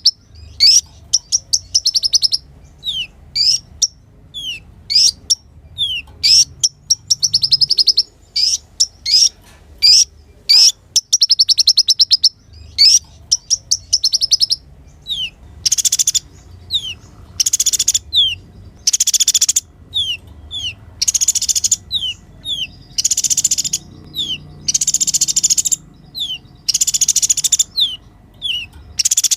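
Kolibri ninja sunbird singing: high, rapid trills of a second or so alternating with short, quick falling notes, the trills turning harsher and buzzier in the second half.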